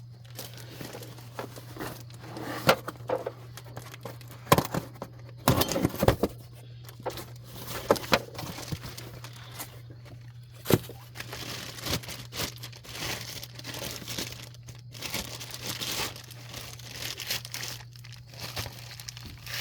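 Packaging being crumpled and torn off a new brake rotor, with irregular crinkling and several sharp knocks, over a steady low hum.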